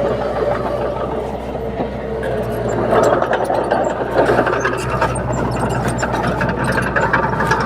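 Komatsu D30P bulldozer's diesel engine running, with a steady low hum, and its steel tracks clanking as it works; the clatter thickens about three seconds in.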